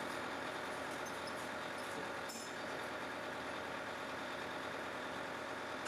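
Heavy machinery engine idling steadily, with a faint click a little over two seconds in.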